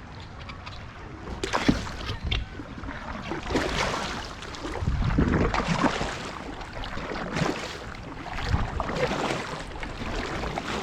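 Paddle strokes from a small inflatable raft, splashing and swirling the water in uneven surges every second or two, with wind buffeting the microphone.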